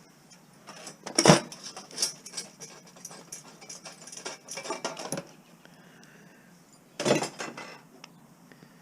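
Metal scrap pieces clinking and clattering as they are handled and set down, in several bursts over the first five seconds and once more about seven seconds in.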